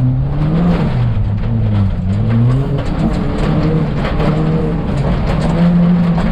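Ford Fiesta ST rally car engine being driven hard, its pitch climbing and dropping again and again as it revs and comes off the throttle, over a steady rough rush of tyre and road noise.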